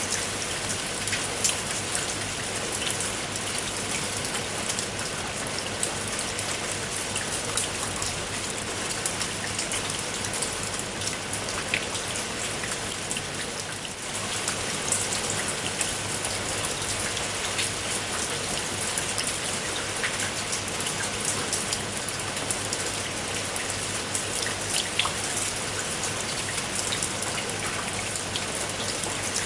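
Steady rain falling, a dense patter of individual raindrops striking a surface over a continuous hiss, with a brief dip in level about halfway through.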